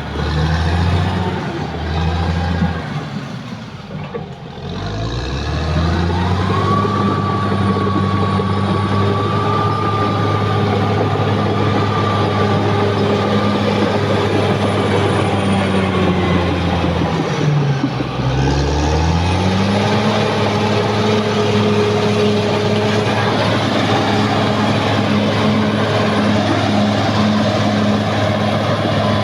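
Caterpillar D6R XL bulldozer's diesel engine running, its pitch dropping and climbing back about four seconds in and again around eighteen seconds in. A steady whine runs through the middle stretch.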